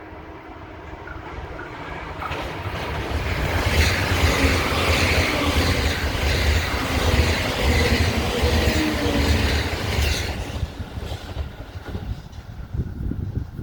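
JR E353 series electric limited express train passing. Its running noise builds over the first few seconds, stays loud for about six seconds, then falls away sharply about ten seconds in, leaving wind buffeting the microphone.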